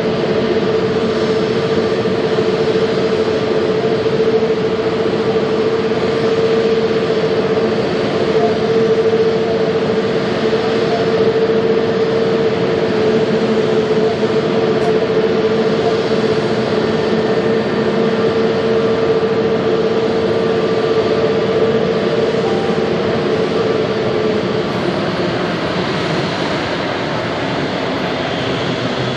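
Pratt & Whitney PW1100G geared-turbofan engines of an Airbus A321neo running: a steady loud drone with a strong steady whine that fades out near the end.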